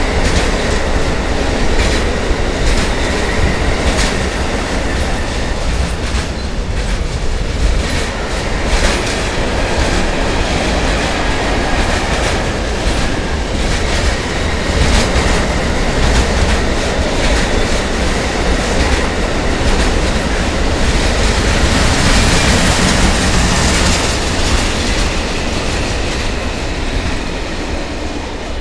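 Intermodal freight train's container wagons rolling past close by, the wheels clattering over the rail joints in a steady clickety-clack. The sound eases near the end as the last wagon goes by.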